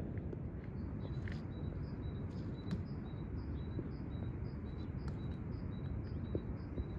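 A small songbird repeating a short two-note call over and over, a higher note then a slightly lower one, over a steady low rumble of outdoor noise.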